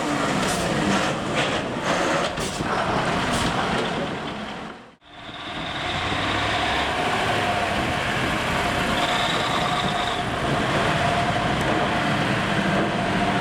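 Vintage truck engines running. The sound fades away to nothing about five seconds in and comes straight back, as at an edit, with a steady engine note afterwards.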